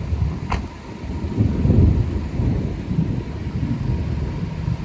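Storm wind gusting across the microphone: an irregular low buffeting rumble that swells and eases, with one brief click about half a second in.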